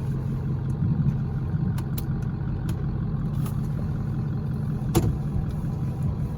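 Ford 7.3L Power Stroke turbo-diesel V8 running at a steady low idle. A few light clicks sound over it, with one sharper click about five seconds in.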